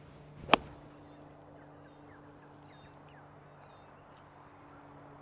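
A single sharp crack of a golf club striking the ball about half a second in, the golfer's approach shot into the green.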